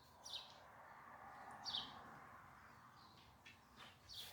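Near silence with faint bird chirps, a few short falling calls, and a few light clicks near the end.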